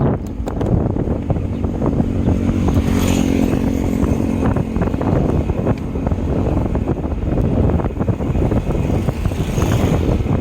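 Wind buffeting the microphone on a moving bike, with a motor vehicle's steady engine hum heard for a few seconds near the middle.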